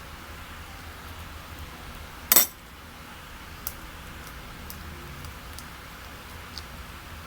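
Kitchen utensil striking a dish once with a sharp clink a little over two seconds in, followed by a few faint light clicks, over a steady low hiss.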